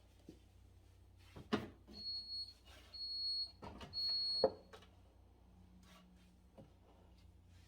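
An electronic appliance beeper sounding three short, high beeps about a second apart, among a few sharp knocks and clatter of items being handled.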